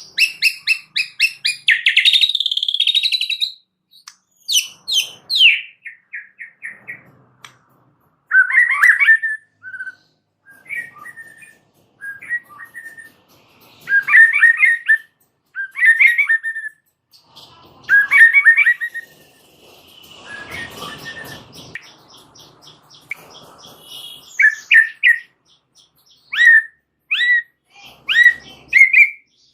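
White-rumped shama (murai batu) singing a long, varied song: rapid runs of repeated notes, clear whistled phrases and chattering trills with short pauses between them, and a harsher rasping passage about two-thirds of the way through.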